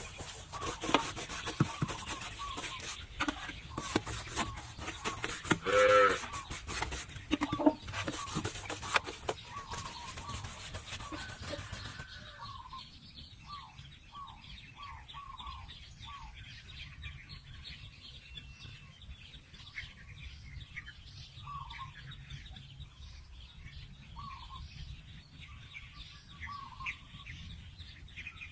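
Chickens clucking, with one louder call about six seconds in. Over the first twelve seconds there are also many sharp knocks and clicks.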